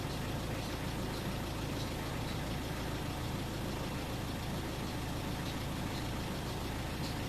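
A car engine running steadily, heard from inside the cabin as a constant hum, with faint light ticks now and then.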